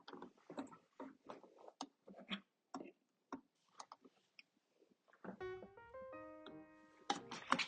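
Scattered light clicks and knocks for about five seconds, then piano music begins.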